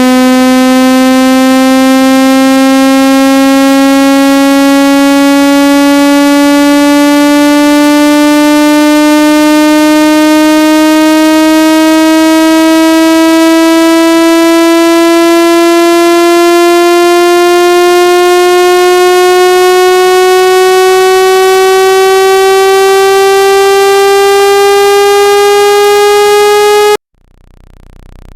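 Synthetic speaker-cleaning tone for shaking water out of a phone or earphone speaker: a loud buzzing tone, rich in overtones, slowly rising in pitch, that cuts off suddenly near the end.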